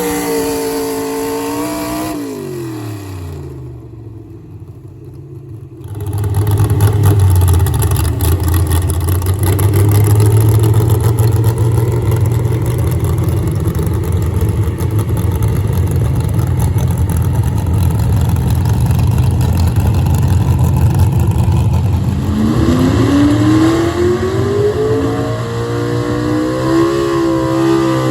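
Pulling truck engine winding down, then a short lull. About six seconds in, an engine opens up to full throttle and runs loud and hard under load with a clattery edge, as a truck pulls the sled. Near the end the revs climb in a rising whine.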